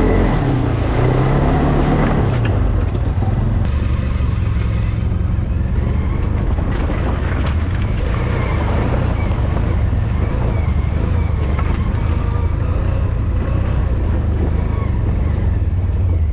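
ATV engine running while riding: the revs drop over the first couple of seconds, then it settles into a steady low rumble.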